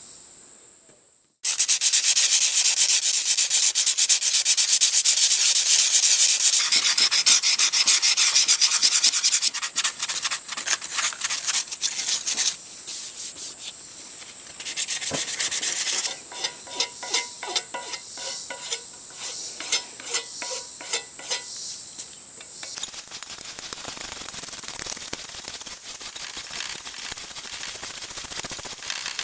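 Rusty drill bits being scrubbed clean with an abrasive: a harsh scratching that starts suddenly about a second and a half in and runs steadily, then breaks into shorter, irregular strokes after about ten seconds.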